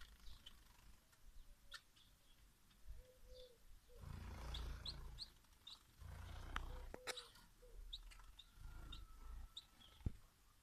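Faint, short, high chirps of small birds, repeated many times. A low rumble comes in around the middle, and a few sharp clicks sound near the end.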